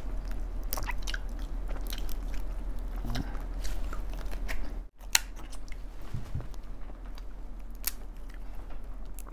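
Close-up eating: chewing crab leg meat, with scattered small clicks and crackles of crab shell being handled and broken. The sound drops out for a moment about five seconds in.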